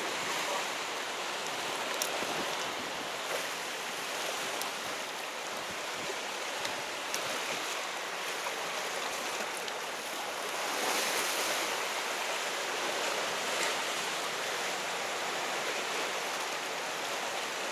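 Steady wash of sea surf against a rocky shore, with a few faint clicks.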